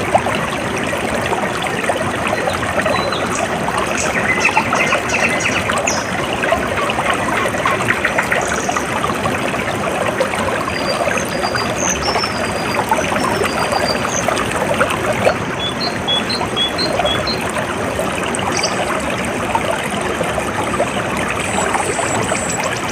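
Running water trickling and splashing steadily, with short high bird chirps here and there above it, including quick runs of brief notes.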